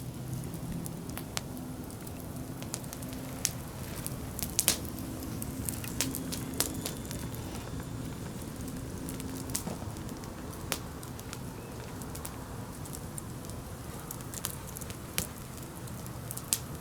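Wood campfire crackling, with sharp pops at irregular intervals over a low steady hiss; the loudest pops come about four to five seconds in.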